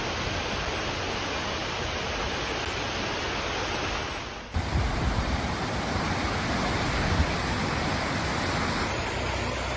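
Rushing floodwater, a steady loud rush. About four and a half seconds in it changes abruptly to a rougher rush with low rumbling and a few knocks, then changes again near the end.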